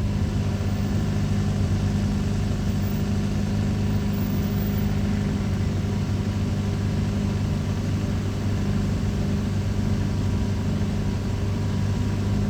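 Steady low motor hum that holds an even pitch with no change.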